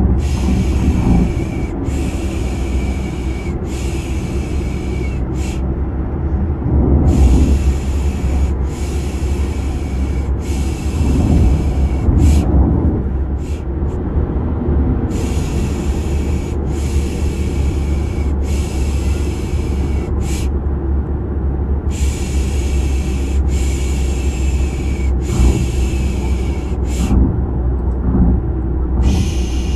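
Steady car-interior rumble of engine and road noise, with a rhythmic 'shhh' shushing over it: three long shushes and a short one, the group repeating about every seven seconds, as a baby-soothing sleep sound.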